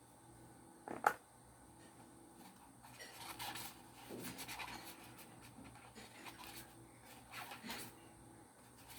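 Faint rustling and scraping of objects being handled, with one sharp click about a second in.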